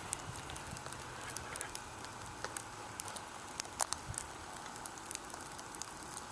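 Freezing rain ticking and pattering on ice-glazed surfaces: scattered light, irregular clicks over a soft steady hiss.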